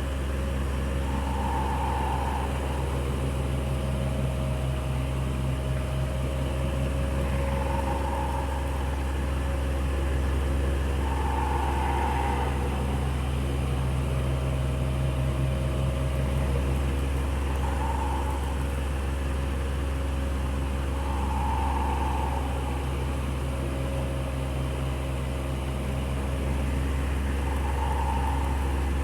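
Electric fan running steadily with a low hum and a constant whir. A mid-pitched swell in the whir comes and goes every four to six seconds.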